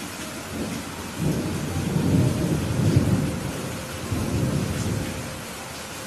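A rolling thunder rumble over steady heavy rain. The rumble swells about a second in, peaks in the middle, then fades away near the end while the rain hiss carries on.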